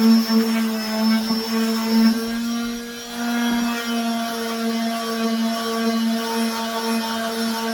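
Electric power tool motor running steadily with a constant hum, easing off briefly about three seconds in.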